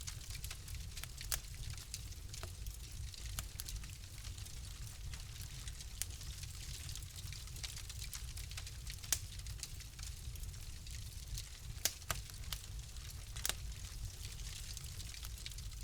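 Wood fire crackling in a fireplace: a steady low rumble and hiss with irregular sharp pops, several louder ones in the second half.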